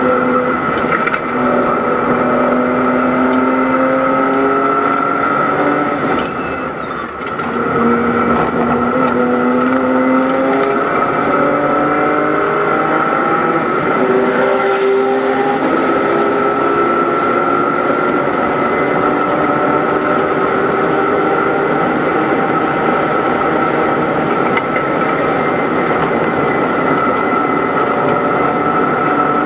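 BMW E90 325i race car's straight-six engine heard from inside the cabin, accelerating hard through the gears. Its pitch climbs, breaks at a gearshift about seven seconds in, climbs again, shifts once more around halfway, then holds high near the end. A steady whine and wind and road noise run beneath it.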